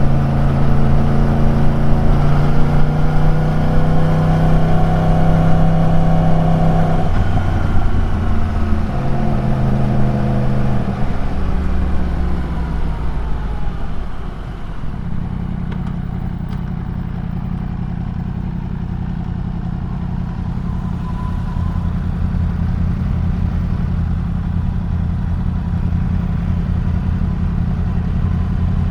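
Yamaha YZF-R1 crossplane inline-four engine and exhaust, held at steady revs for about seven seconds, then changing note and winding down in pitch until about halfway through, before settling into a steady, lower idle for the rest.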